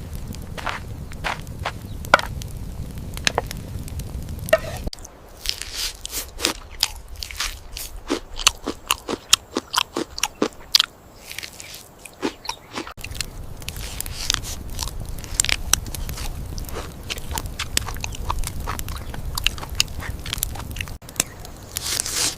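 Irregular crunching and crackling clicks, sharp and uneven, broken by abrupt cuts about five, thirteen and twenty-one seconds in, with a low rumble under some stretches.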